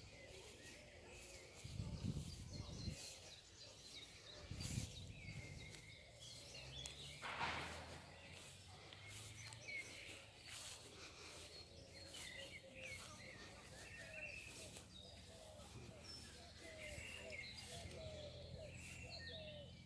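Faint bird chirps over quiet outdoor background noise, with a few dull low thumps in the first five seconds and a brief rustle about seven seconds in.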